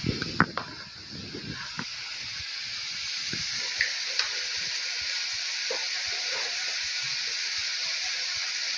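Silkworms sizzling as they fry in hot oil in a wok, a steady hiss. A few light knocks come in the first two seconds.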